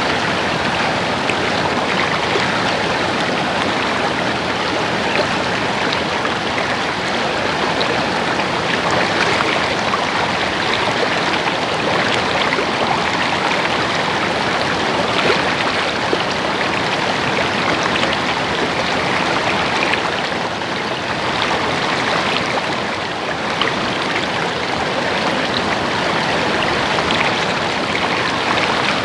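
A stream babbling steadily, with small splashes and droplet ticks scattered through the flow.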